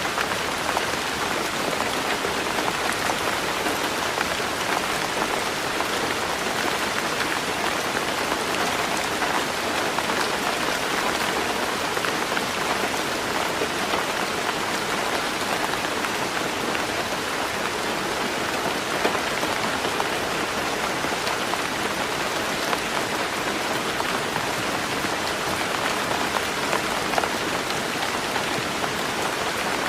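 Heavy rain falling steadily on a tin roof, a dense, even spray of drops at a constant level.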